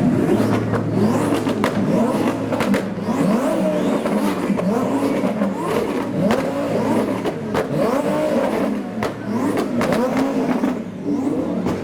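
Twin-turbo Audi R8 RWS V10 being revved again and again in quick blips, each rev rising and falling, with sharp exhaust pops and bangs among them.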